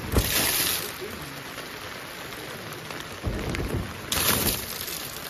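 Steady rain falling, with two brief louder hissing rushes, one just after the start and one about four seconds in.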